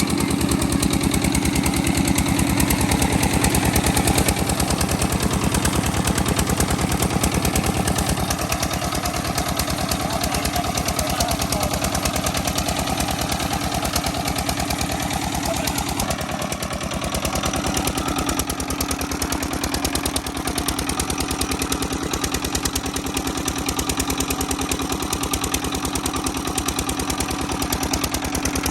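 Petter-type single-cylinder diesel engine running steadily with a rapid, even exhaust beat while driving a tubewell pump. The tone shifts slightly about halfway through.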